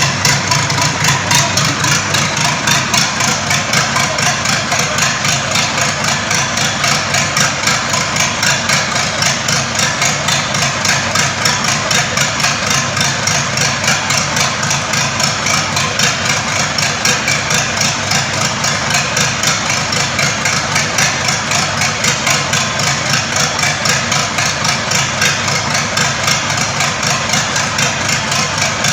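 Freshly rebuilt engine running steadily at idle during its break-in, with an even, rapid pulsing beat.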